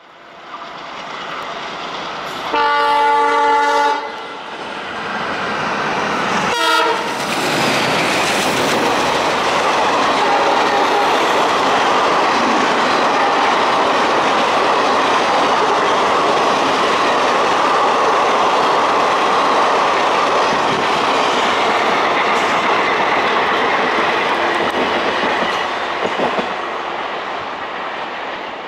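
A WDM3D ALCO diesel locomotive hauling a passenger train approaches and sounds a single horn blast of about a second and a half. The locomotive then passes at speed with a sharp burst of sound, and the coaches run by with the steady rush and clickety-clack of wheels over rail joints, fading near the end.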